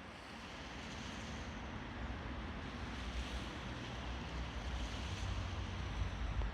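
Sea surf washing on the shore, with wind buffeting the microphone as a low rumble that grows stronger about two seconds in.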